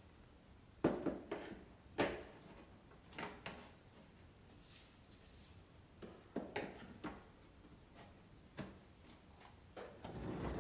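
A series of separate hard knocks and clunks, like the plastic parts of a Kärcher wet-and-dry vacuum cleaner being handled and fitted. A steadier noise comes in near the end.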